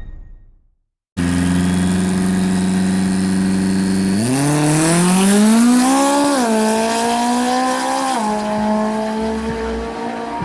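After about a second of silence, a drag racing car's engine holds steady revs for a few seconds, then accelerates, its pitch climbing and dropping sharply twice at the gear shifts before settling.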